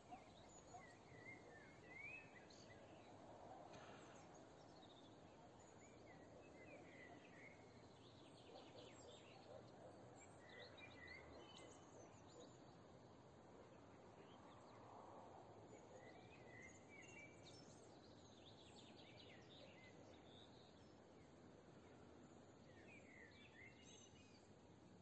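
Faint songbird chirps and calls, short and scattered, from several birds over a quiet, steady outdoor background hiss.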